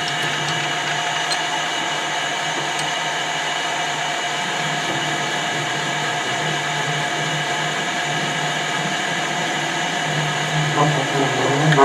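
Metalworking machine tool running steadily, its motor and drive giving an even hum with a whine of several steady tones. Near the end a wavering, warbling sound comes in over it for about a second.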